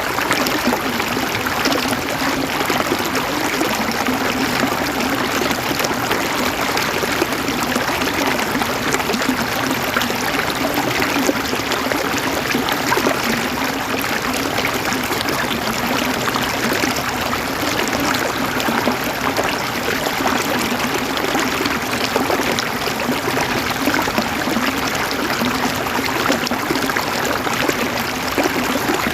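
Water flowing steadily over a stream bed, a continuous rush with fine splashing and trickling and no pauses.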